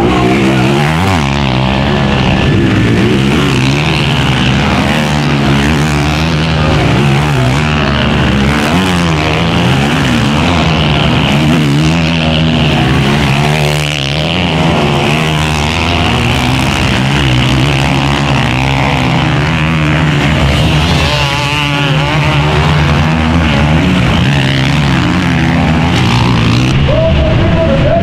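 Several motocross bikes racing, their engines revving up and down in overlapping sweeps as they accelerate and pass.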